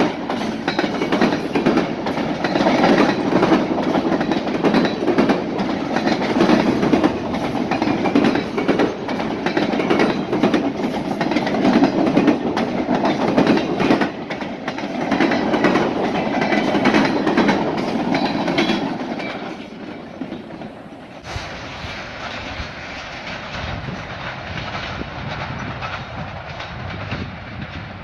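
Freight train cars rolling past, steel wheels clicking over rail joints. About two-thirds of the way through, the sound drops away to a quieter rumble.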